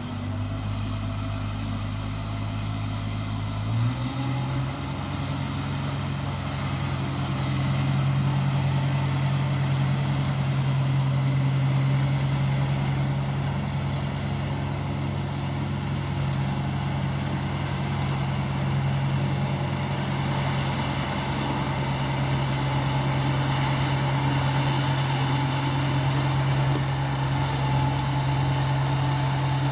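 Engine of an ISEKI 325 rice harvester running steadily. About four seconds in, its pitch steps up and it runs faster and a little louder from then on.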